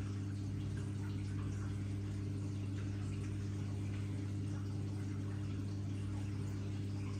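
Miele W1 front-loading washing machine running with water trickling and sloshing inside, over a steady low electrical hum.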